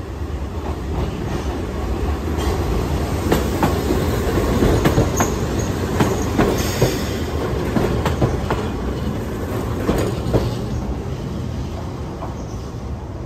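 Keihan 700 series two-car train passing close at low speed, its wheels clattering over points and crossings with brief high squeals. Loudest about four to seven seconds in, then fading away.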